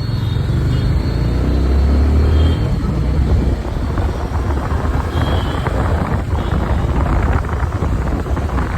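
Motorbike on the road: a steady low engine and road rumble mixed with wind buffeting the microphone.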